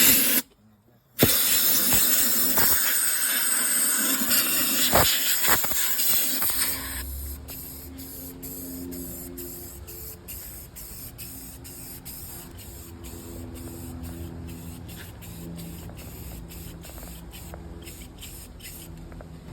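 Aerosol spray paint hissing in long, loud passes, broken by a short pause just under a second in. It stops about seven seconds in, leaving only a faint low hum and light clicking.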